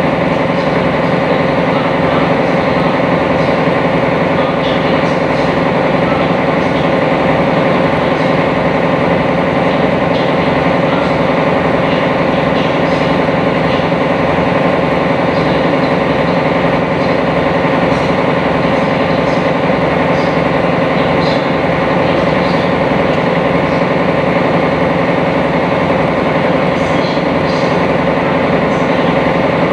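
Sightseeing boat's engine running steadily while under way, heard on board as a loud, even hum with a constant pitch.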